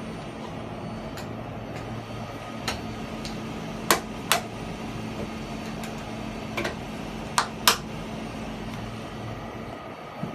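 Pleated filter cartridge welding machine running with a steady hum, punctuated by sharp clicks and short hisses, in pairs about 4 and 7.5 seconds in, as its servo-driven welding head and pneumatic clamping cylinder cycle.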